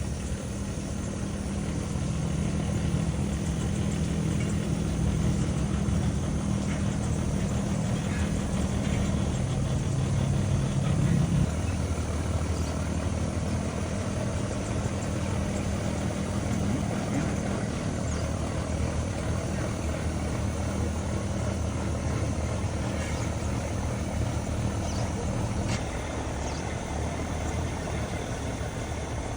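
Passenger riverboat's diesel engine running with a steady low drone; its pitch shifts about eleven seconds in and the lower tone eases off near the end.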